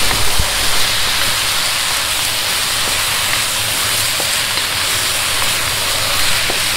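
Vegetables sizzling steadily in a hot wok while a wooden spatula stirs them, with a few faint clicks of the spatula against the pan.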